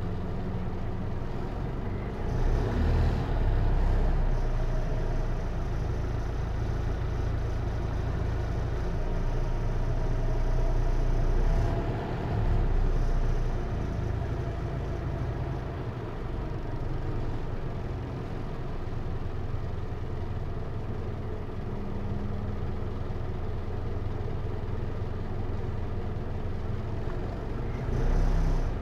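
Hino Liesse RX4JFEA microbus's J05C diesel engine running, heard inside the cabin, with a steady low drone that swells louder a few times as the bus pulls away or accelerates.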